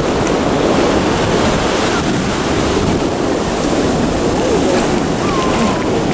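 Ocean surf washing onto the beach, a steady rushing, with wind buffeting the microphone.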